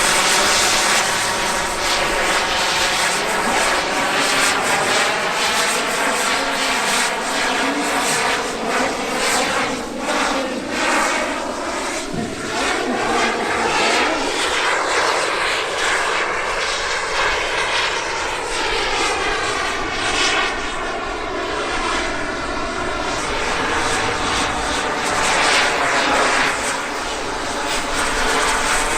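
Radio-controlled model aeroplane's engine and propeller in flight, the engine note continually rising and falling as the plane manoeuvres and passes by.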